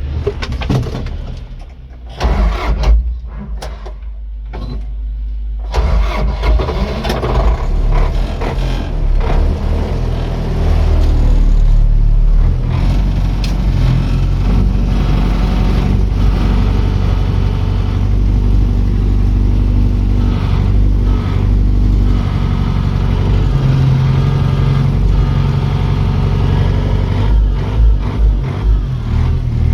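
Tractor engine starting a few seconds in, then running steadily with some rises in engine speed.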